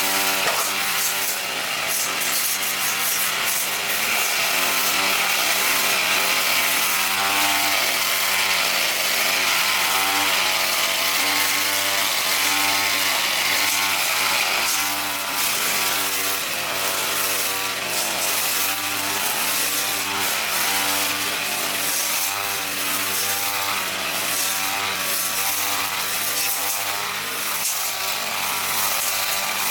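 A power saw running continuously under load, its engine or motor pitch wavering as it cuts.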